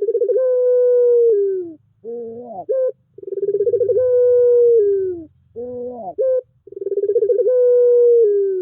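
Puter pelung, a cooing variety of the Barbary dove, giving its long drawn coo three times: each begins with a pulsed note, holds a long tone that falls away at the end, then breaks into a short wavering, rising phrase.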